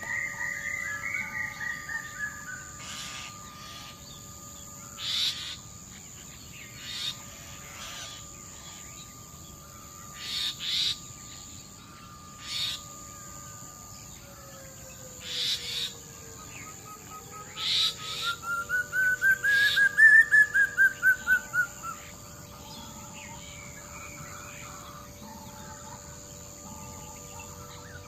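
Birds calling. A fast trill of repeated notes falls in pitch at the start, short sharp chirps come every second or two, and about two-thirds of the way through a louder trill rises and then falls. Steady high-pitched tones hold underneath throughout.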